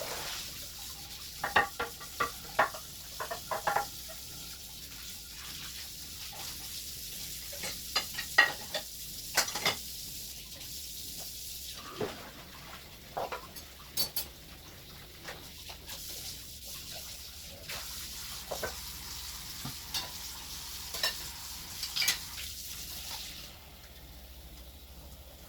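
Kitchen cleanup sounds: scattered clinks and knocks of dishes and utensils being handled over a steady hiss, which stops shortly before the end.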